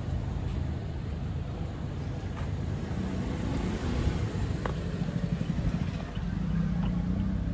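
Toyota Innova Crysta's 2.7-litre 2TR-FE four-cylinder petrol engine running with a steady low hum, its note growing a little stronger partway through, with a few light clicks.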